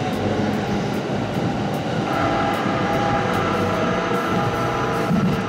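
Running noise of a commuter train heard from inside the carriage as it moves through a station, a steady rumble with a whine that comes in about two seconds in.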